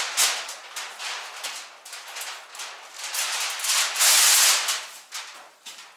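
Aluminium foil being handled and cut, crinkling and rustling irregularly, with a louder steady rasp of about half a second roughly four seconds in.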